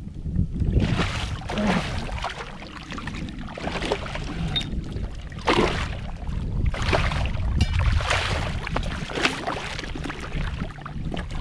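Shallow water splashing in irregular bursts, about one every second or so, as a hooked redfish thrashes near a kayak. A steady low wind rumble runs on the microphone underneath.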